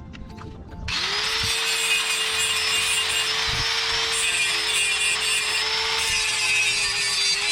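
Electric grinder spinning up about a second in and then running steadily against sheet steel, a loud grinding hiss over a steady motor whine.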